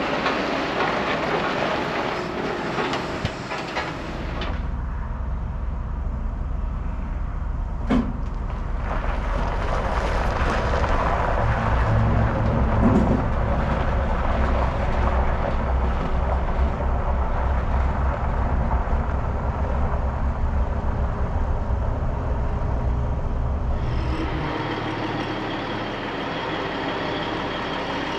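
Heavy truck engine running steadily with a low rumble. There is a sharp click about eight seconds in, and the sound changes abruptly twice, a few seconds in and near the end.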